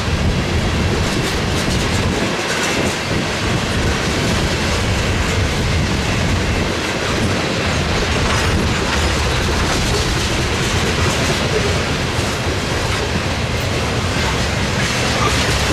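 Freight train cars rolling past at a steady speed, wheels clicking over the rail joints over a continuous rumble.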